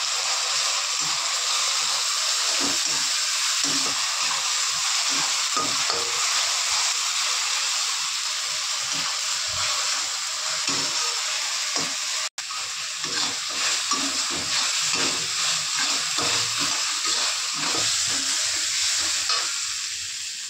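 Onion-garlic paste sizzling in hot oil in a steel kadai, with a perforated steel ladle scraping and stirring it in irregular strokes. The sound cuts out for an instant about twelve seconds in. The masala is being fried until the oil separates from it.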